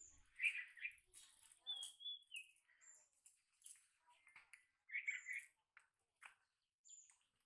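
Small birds chirping and calling: short high whistled notes, several falling in pitch, with a longer falling whistle a couple of seconds in and bursts of chirps about half a second in and around five seconds in.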